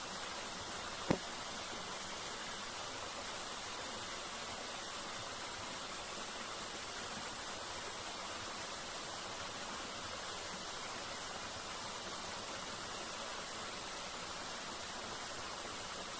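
Steady rushing of a waterfall, with a single sharp click about a second in.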